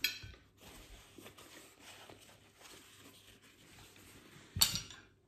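Quiet chewing of a soft white-bread sandwich, with faint small clicks of tableware throughout. A short clink right at the start and a louder brief clatter of dishes near the end.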